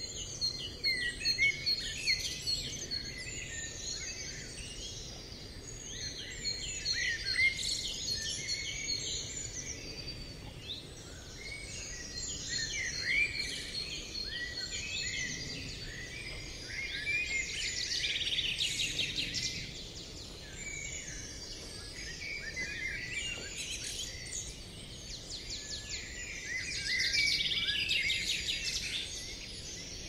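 A chorus of songbirds singing and chirping, with many quick high chirps and trills overlapping. It swells into busier, louder passages every several seconds and eases between them, over a faint steady background hiss.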